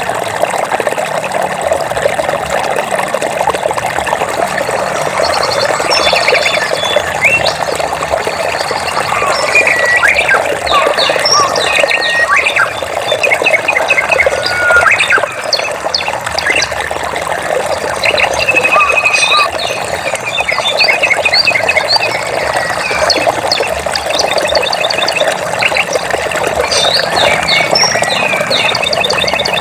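Running water flowing steadily, with many small birds chirping and trilling over it. The birds begin about five seconds in and keep up a busy, overlapping chorus.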